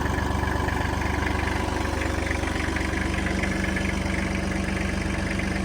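Kubota L3130 tractor's diesel engine idling steadily at low throttle.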